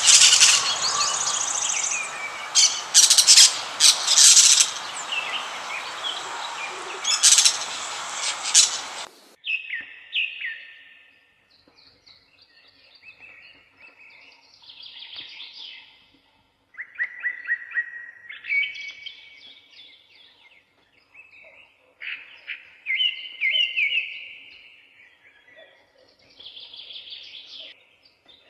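Birds chirping and calling. For about the first nine seconds there is loud, dense chirping over a noisy background. After an abrupt change it drops to quieter, separate whistled calls and short trills, some rising and some falling.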